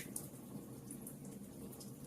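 Wood fire burning in a fireplace: a steady low rumble of flames with a sharp crackle just after the start and a few fainter pops later.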